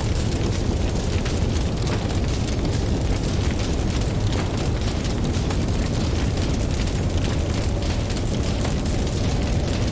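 Campfire crackling with many small pops, over a steady low rumble of ocean surf.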